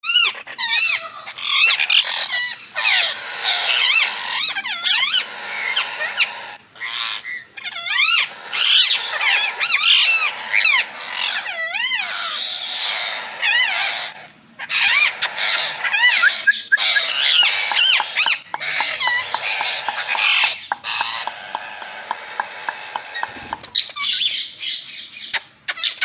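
Parrot calling: a nearly continuous warbling chatter of quickly wavering whistles, interspersed with sharp squawks and clicks.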